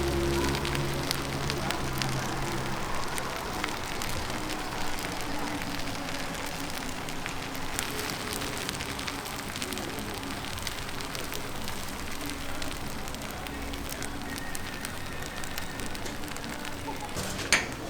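Steady sizzling and crackling of whole chickens cooking over an oak-wood fire, with many small irregular pops.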